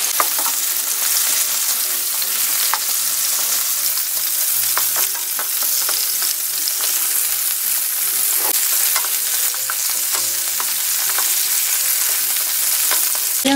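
Abalone and garlic sizzling in melted butter in a nonstick frying pan, stirred and turned with a wooden spatula: a steady hiss with scattered crackles.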